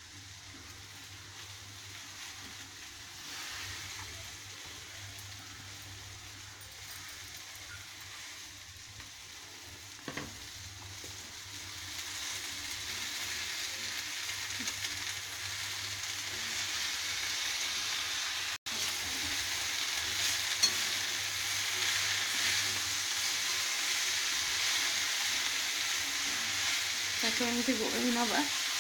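Moringa (drumstick) leaves and pumpkin pieces sizzling in hot sunflower oil in a steel kadai while being stirred with a steel spatula. The sizzle grows steadily louder from about the middle on as the leaves wilt into the oil.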